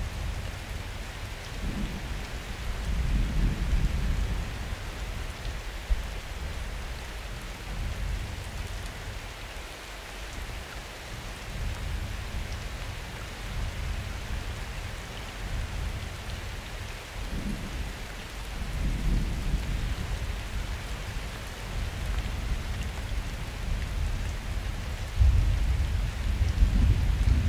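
Steady rain falling, with distant thunder rumbling deep and low several times, strongest near the end.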